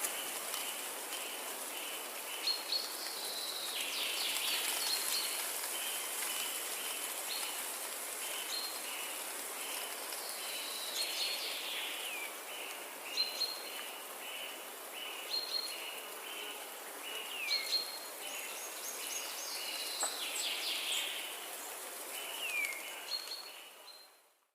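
Forest ambience: several songbirds calling and singing over a steady background hiss, with a fast run of short repeated notes and a few chirps that slur downward. The sound fades out at the very end.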